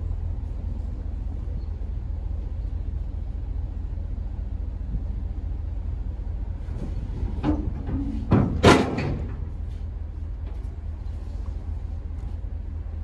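Chevy truck driving, with a steady low rumble from the engine and road. A few sharp clunks come a little past halfway, the loudest just before nine seconds in.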